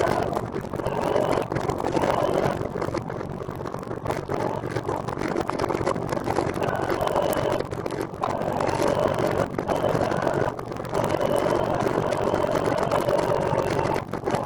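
Steady road noise while riding: traffic and tyres on the road, with a faint whine, dipping briefly about halfway and again a few seconds later.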